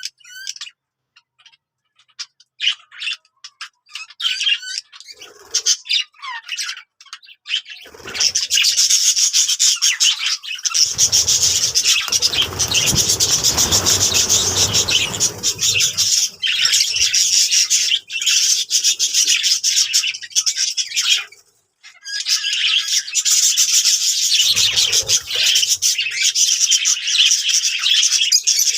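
Budgerigars chattering and warbling in a fast, continuous stream of high chirps. It starts as scattered chirps and thickens into dense chatter, with a brief pause about two-thirds of the way through. For a few seconds in the middle, a low rustling noise runs underneath the chatter.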